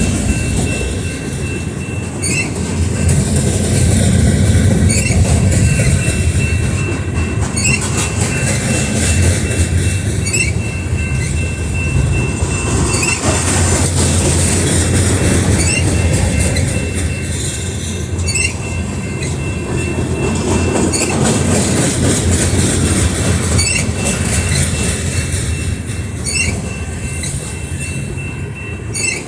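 Heavily loaded freight cars of a pipe train rolling past: a steady low rumble of wheels on rail, with a clack about every two and a half seconds as each car's wheels cross a rail joint, and a thin steady wheel squeal.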